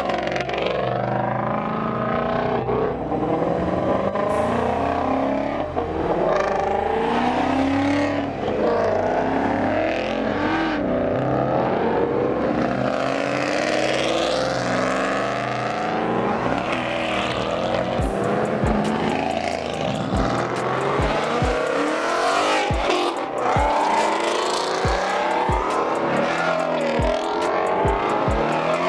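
Car engines revving and tires squealing, mixed with music; a steady thumping beat comes in about two-thirds of the way through.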